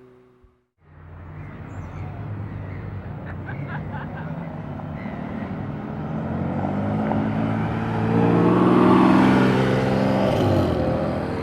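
A sports car's engine and exhaust approaching and passing, growing steadily louder to a peak about nine seconds in, its pitch bending as it goes by, then easing off. It begins after a moment of silence.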